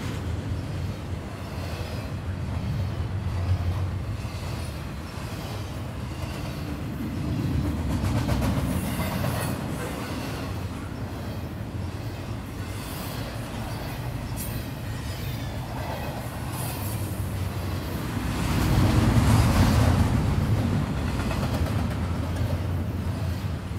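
A freight train's double-stack container well cars rolling past at close range: steel wheels running on the rail in a continuous rumble that swells louder a few times as the cars go by.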